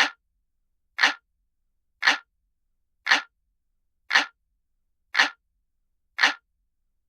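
A looped analog-clock ticking sound effect: one sharp tick about every second, seven in all, with silence between.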